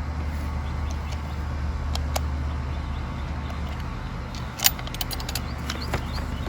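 A steady low hum with a few knocks and light handling noises as small pumpkins are put into a bag for weighing; the sharpest knock comes a little over halfway through.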